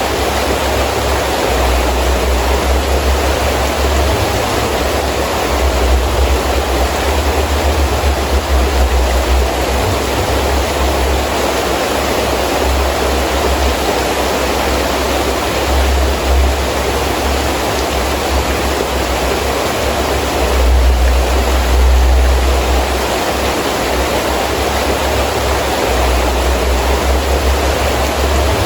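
Heavy rain falling steadily, with gusting wind that adds a low rumble which swells and eases, loudest a little over twenty seconds in.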